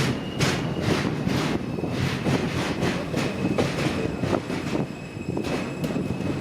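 R160A-2 subway train rolling into the station, its wheels clacking over rail joints about twice a second over a steady rumble. A thin, steady, high-pitched squeal runs beneath.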